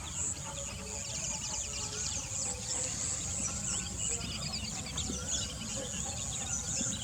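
Outdoor nature ambience: a high insect trill pulsing evenly about twice a second, with many short bird chirps scattered through it and a low rumble underneath.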